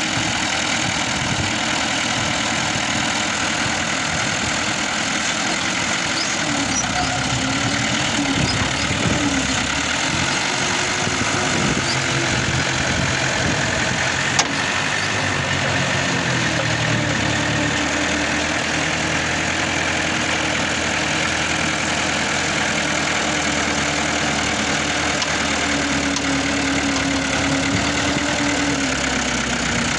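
New Holland 640 tractor's diesel engine running steadily, its pitch dipping and rising now and then as it takes load, with one sharp click about halfway through.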